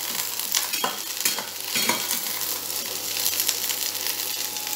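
Cauliflower florets frying in hot mustard oil in a small kadai, a steady sizzle, with a metal spatula scraping and clicking against the pan every so often as they are stirred.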